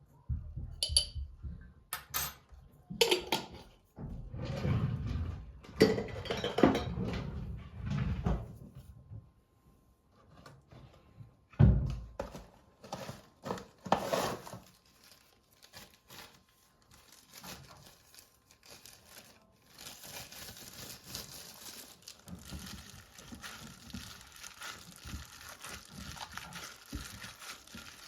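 Knocks and clatter of kitchen work, several sharp hits in the first half, then a steady hiss from about twenty seconds in.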